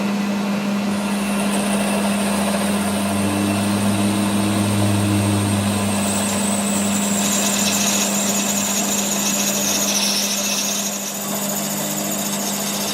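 Workshop power machine running steadily with a low hum and a high whine; the whine sags in pitch about halfway through, then recovers.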